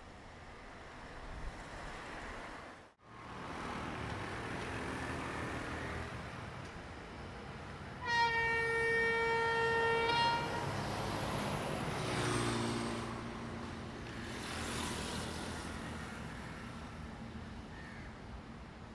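Sri Lankan diesel train approaching and passing with a steady rumble. Its horn sounds one long blast of about two seconds about eight seconds in, and a shorter, lower horn note follows a few seconds later.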